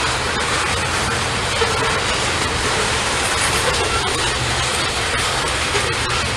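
Norfolk Southern freight train running by: a steady rumble of engine and wheels on rail, with faint ticks from the wheels.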